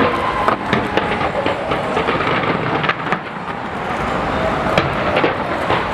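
Fireworks going off: a rapid, irregular run of sharp bangs and crackles over a continuous rumbling din.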